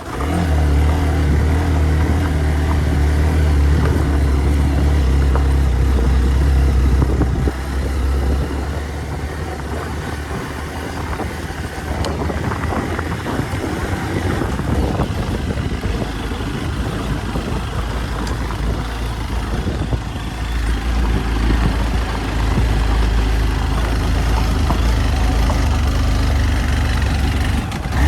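Hero Xpulse 200 motorcycle's single-cylinder engine running under way on an off-road track, holding steady revs at first, easing off and going quieter and rougher for several seconds in the middle, then pulling steadily again near the end.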